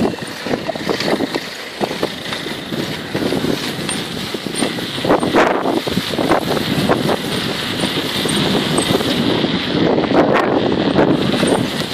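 Wind rushing over the microphone along with road noise, with irregular gusts and rattles throughout, as heard on a camera riding along on a bicycle.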